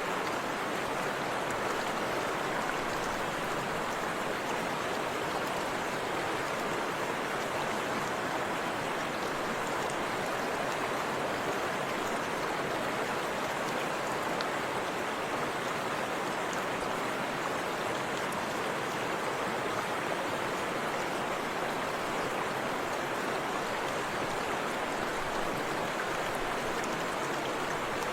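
Forest river rushing over rocks, a steady even wash of flowing water.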